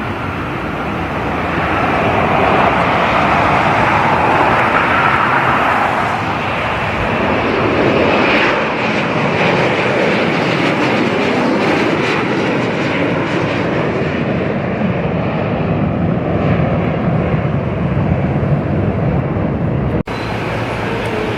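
Loud, steady engine noise from a jet airliner passing near the airport runway, with the sound shifting and spreading lower as it goes by.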